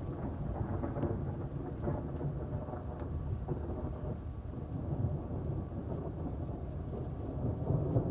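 Rolling thunder rumbling low and continuously through steady rain, swelling louder near the end.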